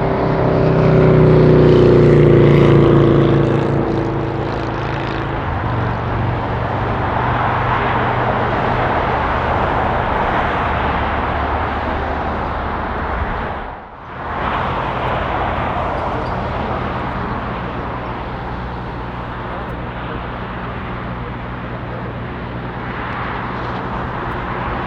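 Jet airliner passing close: the engine whine is loudest in the first few seconds and falls in pitch as the aircraft goes by. A steady jet rumble and rushing noise follow, cut off briefly about two-thirds of the way through.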